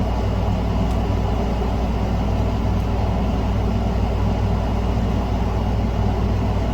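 Steady low background hum of running machinery, even throughout, with a couple of faint ticks.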